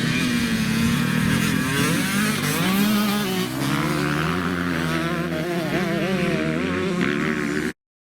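Dirt bike engine revving, its pitch rising and falling as the throttle is worked; the sound cuts off suddenly near the end.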